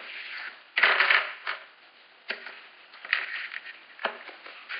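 Small plastic toy pieces being handled: irregular rustling and clicking, with the loudest rustle about a second in and a few sharp clicks later.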